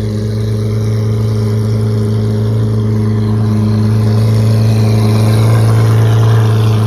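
Sports car engine running steadily at low revs, with a deep, even hum that swells slightly about five seconds in and eases near the end.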